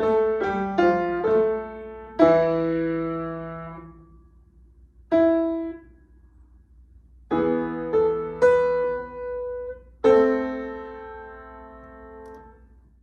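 Piano played by a student: short phrases of struck notes and chords with pauses between them, ending on a held final chord about ten seconds in that slowly fades away.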